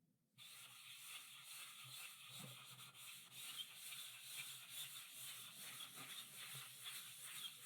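Chalk writing on a blackboard: a faint, continuous scratching and rubbing of chalk strokes that starts about half a second in.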